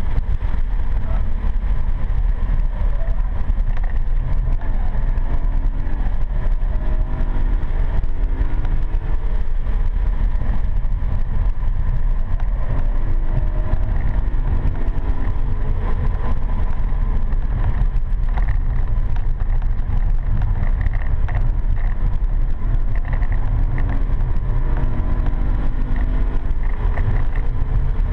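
BMW M3 E92's 4.0-litre V8 running hard on track, heard from inside the cabin as a heavy low rumble of engine and road noise. The engine note rises in pitch several times as the car accelerates.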